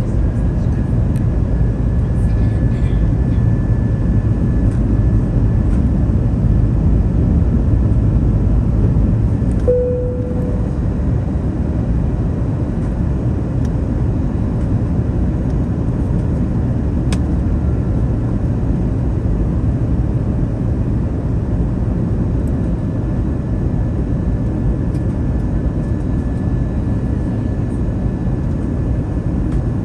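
Steady cabin noise inside an Airbus A321neo airliner: a low, even rumble of airflow and engines, with a faint steady high whine. A brief single tone sounds about ten seconds in, after which the rumble is slightly quieter.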